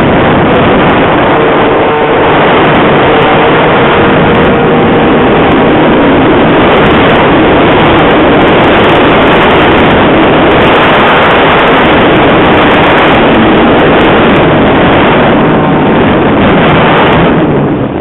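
Strong wind buffeting the microphone: a loud, steady rush that eases off near the end.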